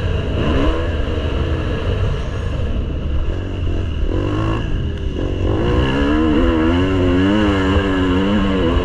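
Motocross bike engine revving up and down as it is ridden, its pitch wavering rapidly in the second half, over a steady low rumble.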